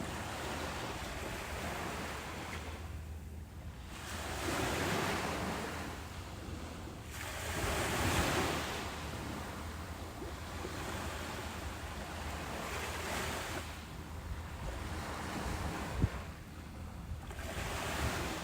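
Ocean waves breaking and washing up a beach, swelling and ebbing, with two stronger surges about four and eight seconds in. A single sharp click about sixteen seconds in.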